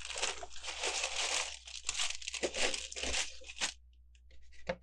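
Plastic bags of Lego pieces crinkling and rustling as they are handled and taken out of the box, then a few light clicks and taps near the end.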